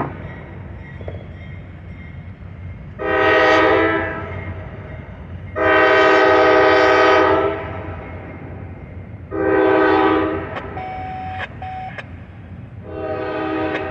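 Round-tag Nathan K5LA five-chime air horn on a GE CW44AH locomotive sounding four blasts: a short one about three seconds in, a longer one of about two seconds, another short one, and a fourth starting near the end. The steady rumble of the train runs underneath.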